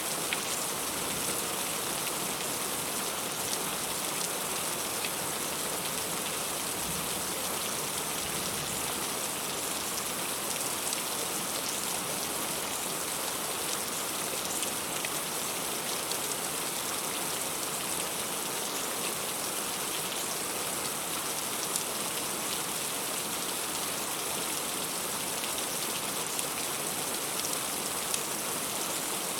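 Heavy rain falling steadily: a dense, even hiss with many individual drops tapping through it.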